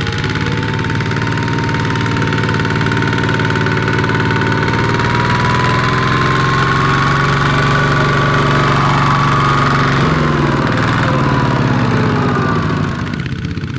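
Small tractor engine running under load, its pitch climbing slowly with a whine, then falling off about ten seconds in and easing down near the end.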